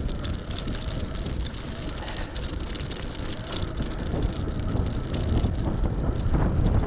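Electric bike riding over a rough, bumpy track: steady tyre and road noise with rattling knocks, plus a low wind rumble on the microphone, growing louder in the second half.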